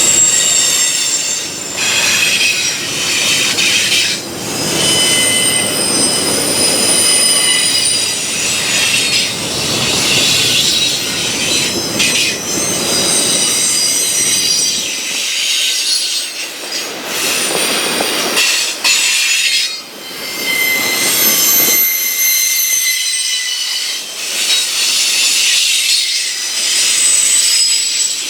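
Freight train rolling slowly through a curve, its wheel flanges squealing in several high, wavering tones over the rumble of the cars.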